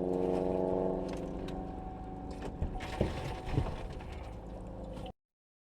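A steady vehicle drone with a few sharp knocks midway, then the sound cuts off suddenly about five seconds in.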